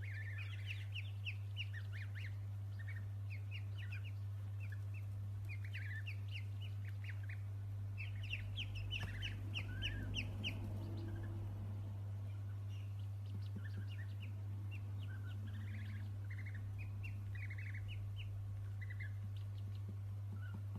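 Small birds chirping in quick, short high notes that come and go in clusters, over a steady low hum.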